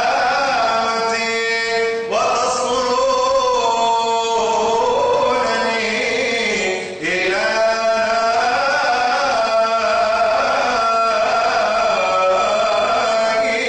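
A priest's solo chanting voice, singing long drawn-out phrases that slide between notes, with new phrases beginning twice, over a steady held drone note.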